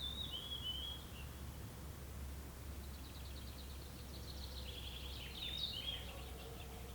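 Songbirds singing: a short warbling phrase at the start, then a fast run of repeated high notes that builds into a longer, more varied phrase about five seconds in, over a low steady rumble.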